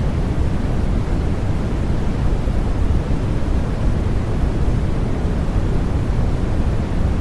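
Continuous sleep white noise for babies: a steady, unchanging rush that is heavy in the low end with only a soft hiss above.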